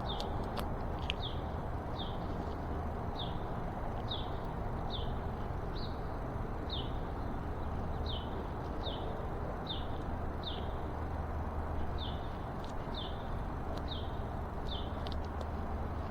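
A bird repeating a short, high, downward chirp about once a second, over steady low background noise, with a few faint clicks.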